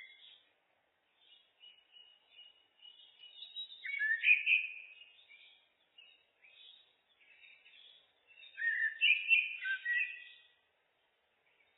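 Common blackbird singing: warbling phrases, the loudest about four seconds in and again near the end, with softer twittering between.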